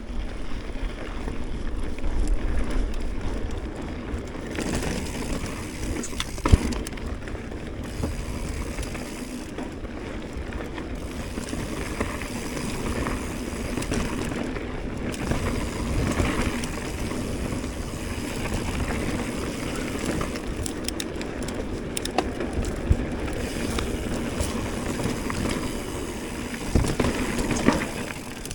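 Mountain bike riding over a dirt trail: a continuous rumble of tyres on rough ground and the bike rattling over bumps, with irregular knocks, the sharpest about six seconds in.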